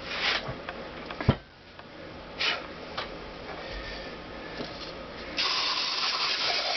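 Handling noises with a sharp knock about a second in, then a spray can of cleaning product starts hissing steadily about five seconds in, sprayed onto the cylinder head.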